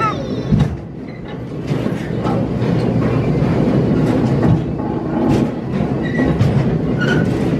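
A miniature amusement-park ride train running along its track with a steady rumble and clatter.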